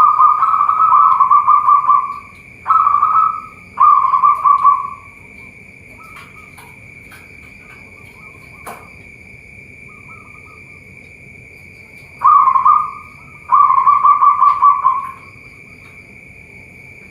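Zebra doves (perkutut) cooing in rapid, pulsing phrases. There are three phrases in the first five seconds, then a pause of about seven seconds, then two more. A steady high-pitched tone runs underneath.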